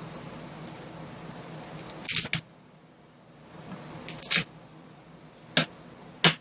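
Garlic cloves being crushed on a kitchen surface: a cluster of sharp knocks about two seconds in, another cluster around four seconds, then two single knocks near the end.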